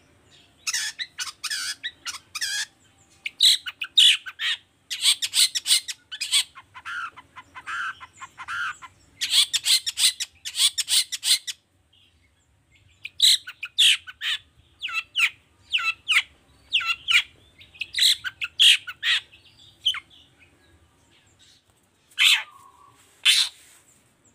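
Long-tailed shrike (cendet) singing: spurts of harsh, scratchy notes and chatter, broken by short pauses, with a lull of about a second midway and a longer lull near the end.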